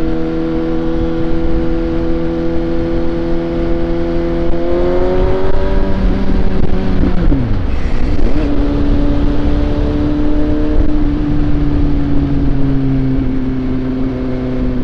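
Suzuki GSX-S750's inline-four engine under way, running steadily, then rising in pitch as it accelerates about five seconds in. The revs drop sharply around seven seconds in with an upshift, then it holds steady again at a lower pitch.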